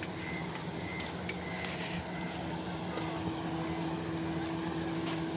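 A motor running steadily with an even hum, with a few faint clicks over it.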